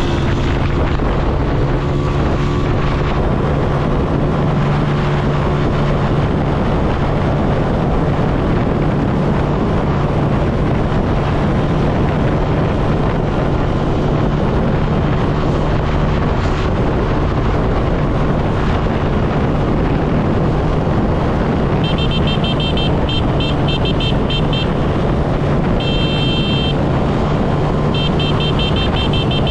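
Motorcycle engine running steadily at cruising speed, with wind rushing over the helmet-mounted microphone. About two-thirds of the way in, a shrill horn beeps rapidly in three spells.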